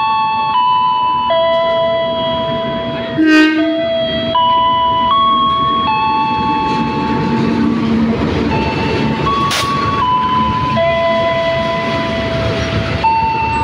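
A slow melody of sustained chime-like notes plays throughout, over the rumble of a diesel-hauled passenger train running past the platform. A brief sharp blast comes about three seconds in.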